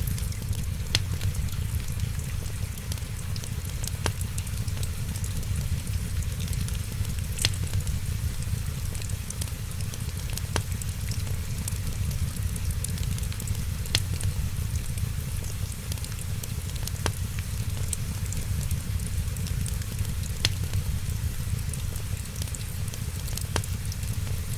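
Wood fire crackling, with a sharp pop about every three seconds over a steady hiss and low rumble, and rain falling steadily.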